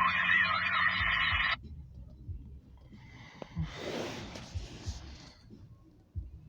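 Band-limited voice chatter over a radio or scanner speaker that cuts off abruptly about a second and a half in. A softer rush of noise follows a couple of seconds later.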